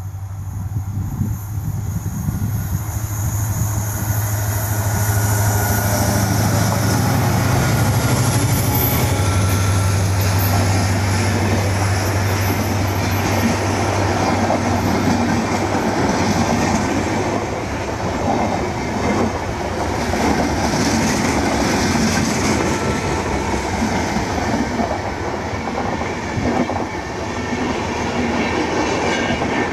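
Diesel-hauled express passing close by: the locomotive's low engine drone builds and fades after about the first half, then a long rake of LHB passenger coaches rolls past with wheels clattering over rail joints and some wheel squeal on the curve.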